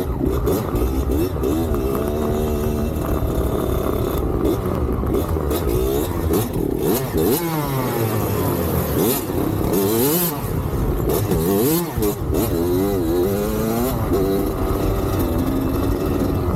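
Dirt bike engine revving up and down while riding, its pitch rising and falling repeatedly through the gears, with gusts of wind noise now and then.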